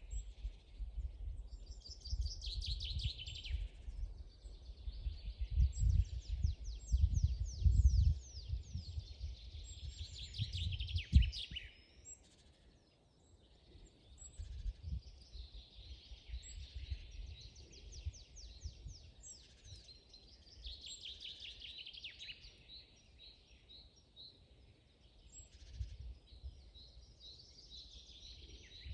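Several songbirds singing in a forest, overlapping trills and rapid chirping phrases. A low rumble sits underneath for roughly the first twelve seconds, ending with a sharp thump about eleven seconds in.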